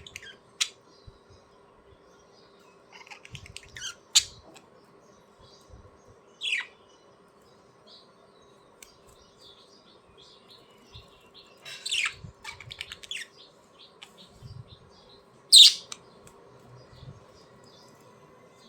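Budgerigars chirping and squawking in short, scattered calls, about half a dozen, the loudest a sharp squawk about three-quarters of the way through, over a faint steady hum.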